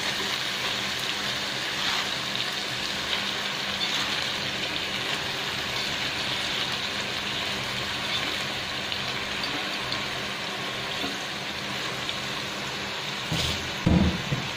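Chicken pieces sizzling in a stainless steel pot with a steady hiss, with a heap of Malabar spinach (alugbati) leaves just added on top. There are a couple of dull knocks near the end.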